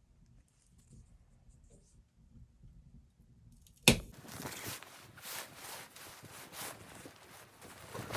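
A sharp knock about four seconds in, followed by a run of irregular crunching, scraping noises.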